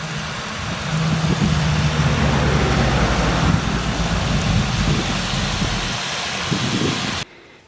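Water spraying from a hose nozzle to fill the calves' water container, a steady rushing spray over a low hum. It cuts off suddenly near the end.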